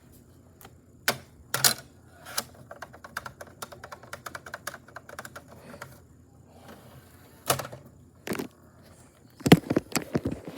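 A series of sharp clicks and knocks, with a fast run of rapid, typewriter-like clicking in the middle and a dense cluster of louder knocks near the end.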